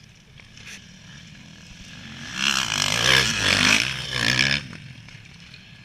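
A motocross bike rides past, its engine revving hard and shifting pitch for about two seconds before dropping away.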